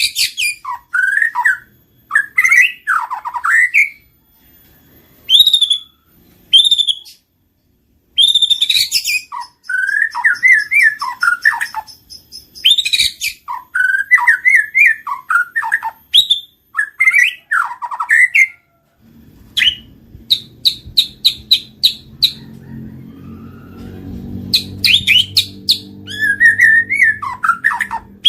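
White-rumped shama (murai batu) singing: loud, varied whistled phrases broken by short pauses, with a quick run of repeated high notes about two-thirds through. A faint low hum comes in under the song at about the same point.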